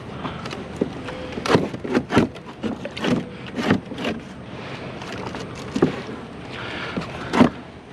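Irregular knocks, clicks and clatter of a scrap item being handled and pried apart by hand, as parts are worked loose.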